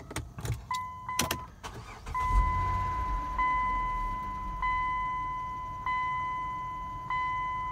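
Dodge Journey's 3.5-litre V6 starting after a few key clicks and settling into an idle, with no tick to be heard. Over it a two-tone door-open warning chime sounds about every second and a quarter.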